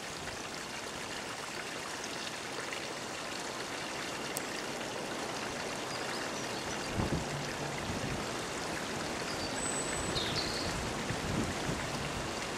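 A single-car diesel multiple-unit train approaching, heard as a steady rushing noise that slowly grows louder, with a couple of low thumps about seven seconds in.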